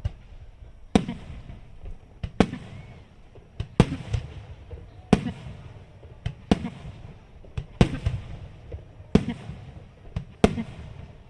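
Aerial firework shells bursting in a steady sequence, one loud bang about every second and a half. Each bang is followed by a few smaller cracks and a rumbling echo.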